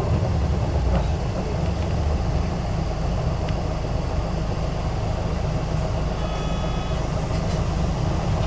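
Steady engine and road rumble heard inside the cabin of a city bus, an Isuzu Erga (PJ-KV234L1). A short pitched chime-like tone sounds about six seconds in.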